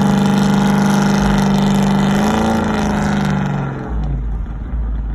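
Car engine pulling hard at a steady high pitch, rising slightly about two seconds in, then falling away a little before the end, leaving quieter road noise.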